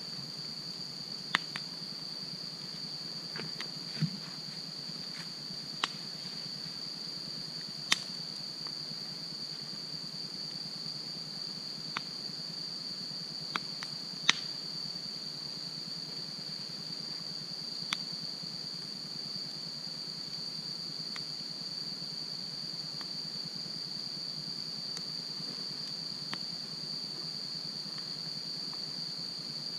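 Wood campfire burning with occasional sharp crackles and pops, about eight in the first 18 seconds and fewer after. A steady high chirring of crickets runs throughout.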